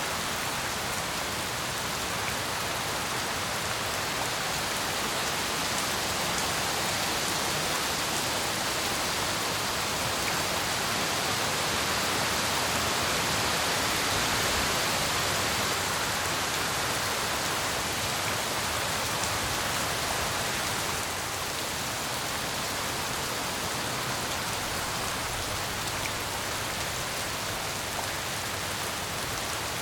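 Steady heavy tropical rain falling, a continuous even hiss of drops on surfaces that swells slightly around the middle and eases a little about two-thirds of the way through.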